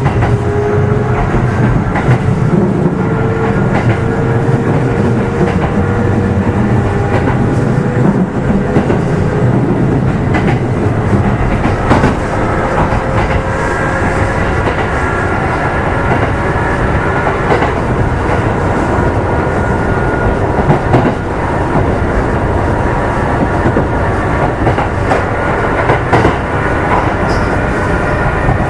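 Kintetsu 2800 series motor car Mo 2853 running, its motor and gear whine climbing slowly in pitch as the train gathers speed, with rail-joint clicks. Under acceleration it makes a growl like an old nose-suspended traction motor, which the uploader flags as an abnormal noise.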